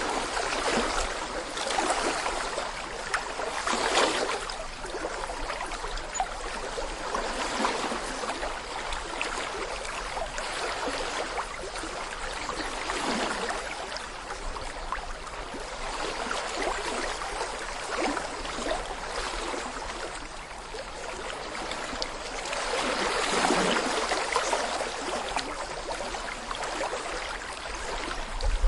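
Small brook running over stones: a steady babbling wash of water that swells a little twice.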